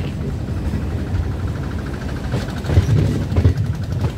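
Suburban electric local train running, with a steady low rumble and the clatter of wheels over the rails. Heavier knocks come about two and a half to three and a half seconds in.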